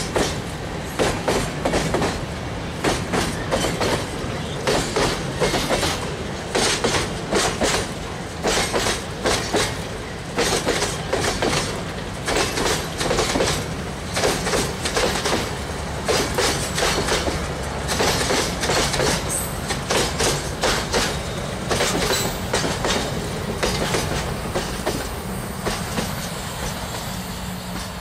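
Loaded railway tank cars of a long freight train rolling past, their wheels clacking over the rail joints in repeated groups of clicks over a steady rumble. The clacking thins and fades near the end as the cars move away.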